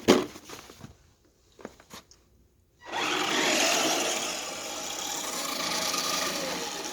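A short knock at the start, then about three seconds in the radio-controlled truck's electric drive whines and its big balloon tires spin and churn in deep snow with a steady rasping noise for about four seconds: the truck is stuck, wheels spinning without getting anywhere.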